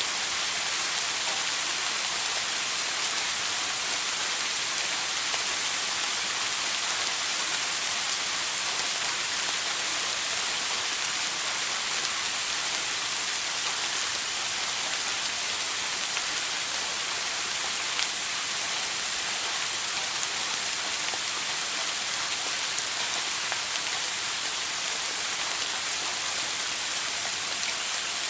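Running shower spray: a steady, even hiss of falling water with an occasional faint tick.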